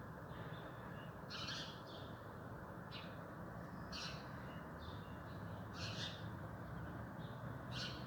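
Wild birds calling back and forth: short harsh calls recur every second or two, with fainter thin chirps in between, over a steady low background hiss.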